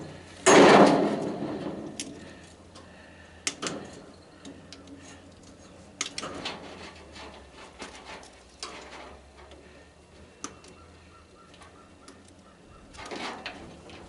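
Metal parts of a tanning bed being handled and pried apart: a loud clank about half a second in, then scattered lighter knocks, clicks and a scrape near the end.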